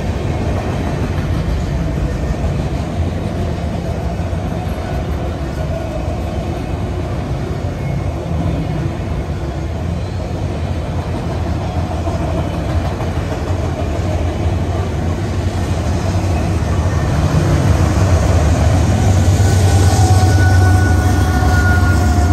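Freight train of autorack cars rolling past, a steady rumble of steel wheels on rail. It grows louder near the end as a mid-train diesel locomotive, a distributed power unit, comes by with its engine drone building.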